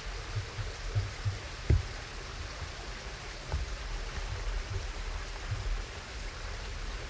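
Steady rushing background noise, with scattered soft low thuds and two sharp knocks, one a little under two seconds in and the louder of the two, the other about three and a half seconds in.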